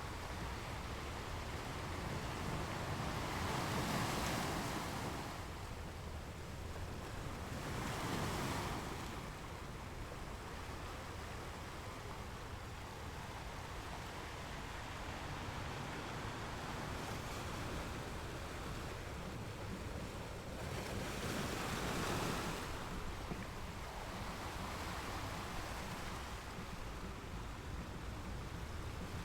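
Ocean waves breaking on shore: a steady wash of surf that swells louder three times, at about four, eight and twenty-two seconds in.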